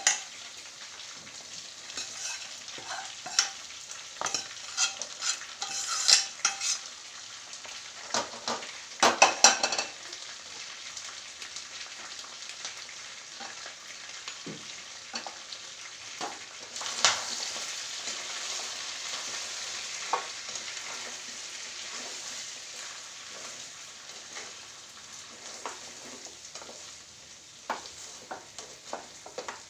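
Chicken frying in spice masala in a pan, a steady sizzle, while it is stirred and mixed with a utensil that scrapes and knocks against the pan, most busily about six and nine seconds in. The sizzle swells suddenly partway through, then slowly settles.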